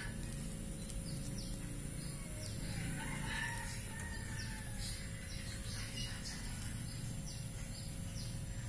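Birds chirping: short, high, falling chirps repeated about twice a second, with a longer call about three seconds in, over a steady low hum.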